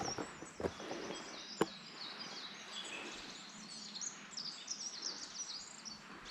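Small songbirds chirping and calling in many short, quick notes over a faint outdoor hiss. A few footsteps or twig snaps fall in the first couple of seconds, the sharpest about a second and a half in.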